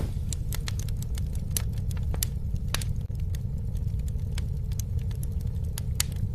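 Campfire crackling, with many sharp irregular pops over a steady low rumble.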